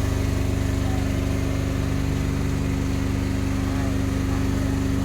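Fishing boat's engine running steadily: an even low drone with a fast, regular pulse.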